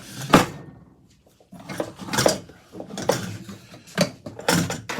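Metal ceiling fan parts clanking and clattering as they are worked loose by hand: one sharp clank near the start, a short lull, then several bursts of rattling metal.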